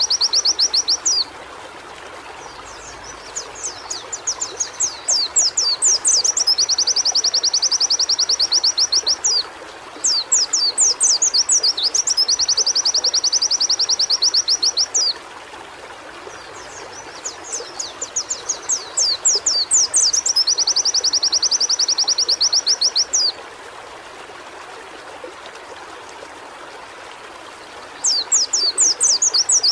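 White-eye (pleci) singing, repeating the same phrase four times: a run of quick, sweeping high notes that speeds into a fast, rapid trill lasting a few seconds, then cutting off. A steady hiss fills the pauses between phrases.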